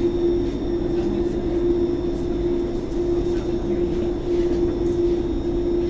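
Thessaloniki metro train standing at a station: a steady hum with one constant mid-pitched tone running through it.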